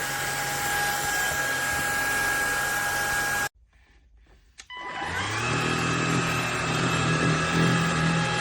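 Cordless stick vacuum's motor running steadily with a high whine, switched off about three and a half seconds in. After about a second of quiet and a click, it is switched back on, spins up with a rising whine and settles into a steady run.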